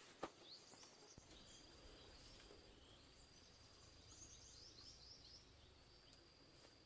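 Faint rural ambience: a steady high-pitched insect trill, with a quick run of short high bird chirps about four seconds in and a single click near the start.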